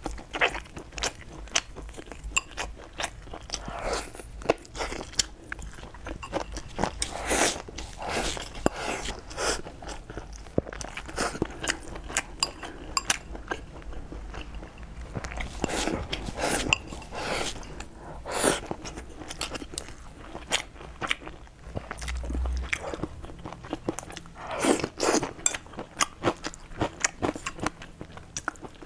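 A person chewing and biting mouthfuls of food, with a steady stream of short, sharp wet mouth clicks and smacks.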